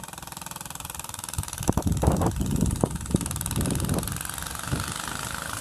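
Vintage Manco go-kart's small engine running through a straight pipe with no muffler, growing louder, with a cluster of sharp irregular pops about one and a half to three seconds in.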